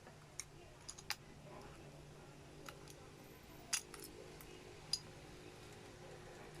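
Sharp plastic clicks of toy building bricks snapping together, about six spread unevenly, over a faint steady hum.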